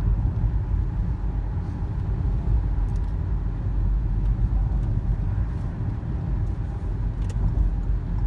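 Steady road and engine noise of a car driving, heard from inside the cabin: an even low rumble.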